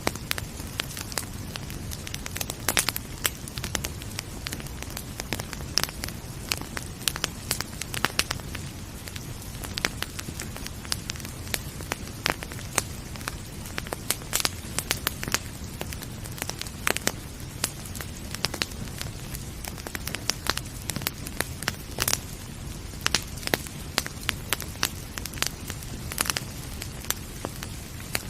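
Wood fire crackling, with frequent irregular sharp pops over a steady low background noise.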